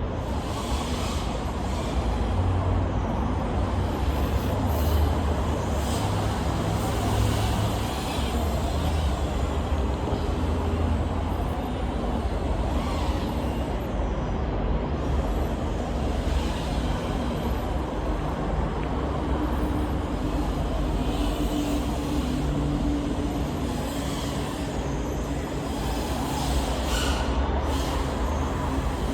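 Brushless motors and propellers of a 3.5-inch FPV quadcopter (1405 4800KV motors on 4S) running continuously, their pitch rising and falling with the throttle over a steady rush of air noise.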